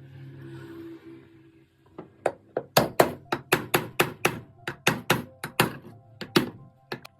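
Repeated hammer blows, about three a second, starting about two seconds in and stopping just before the end, each with a short ring.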